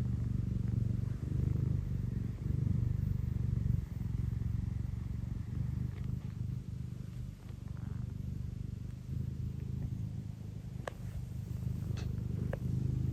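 Scottish Fold cat purring loudly and steadily, a deep, pulsing rumble that shows a contented, affectionate cat. A few faint clicks come near the end.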